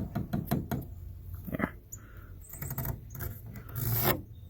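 Wooden boards being handled: rubbing and scraping on wood, with scattered light knocks and clicks and a longer scrape about four seconds in.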